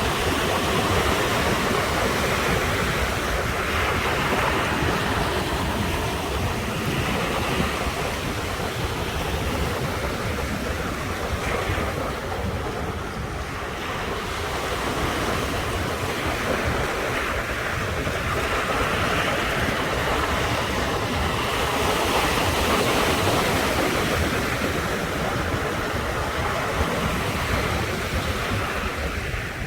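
Ocean waves breaking and washing on the shore: a continuous surf that swells and eases every few seconds, with a brief lull near the middle.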